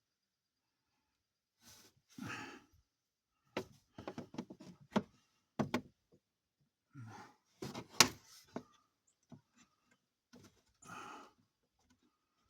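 A man breathing out hard and sighing with effort while working on a truck, between sharp clicks and knocks of handled parts; the loudest knock comes about eight seconds in.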